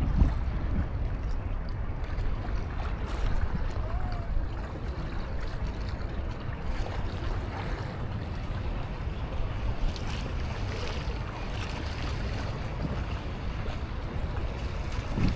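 Seaside ambience: a steady wash of surf under low rumbling wind noise on the microphone, with faint light ticks scattered through it.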